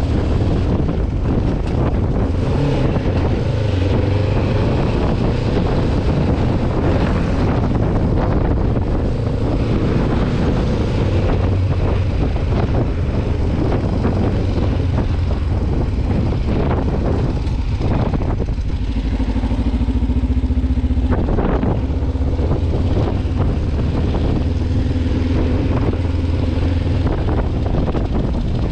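Kawasaki Ninja 500R's parallel-twin engine running under way at fairly steady revs, with a rush of wind over the microphone.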